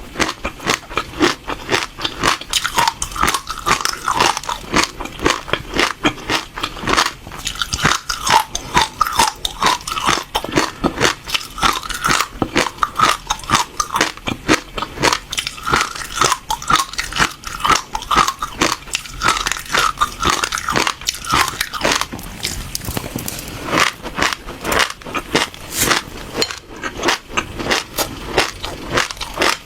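Passion fruit seeds being bitten and chewed: a rapid run of crisp crunches, several a second, with a brief lull about two-thirds of the way through.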